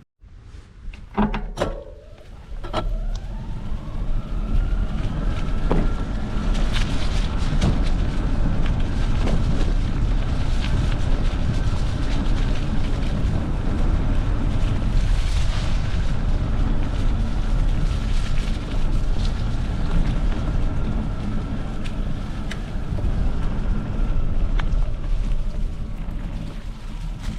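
Electric bike being ridden over forest ground: a faint steady motor whine over rumbling tyres and wind buffeting the microphone. There are a few sharp knocks in the first couple of seconds before the riding noise comes up.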